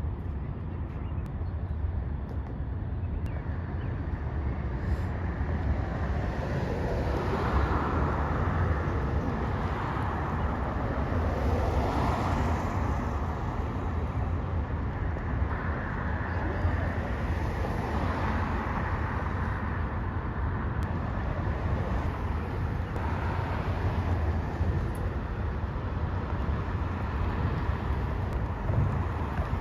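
Freight train of autorack cars rolling past: a steady low rumble of wheels on rail that swells and eases every few seconds as the cars go by.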